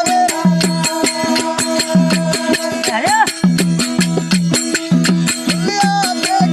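Indian folk music: a steady beat of drum and rattling percussion under a held, wavering melody line.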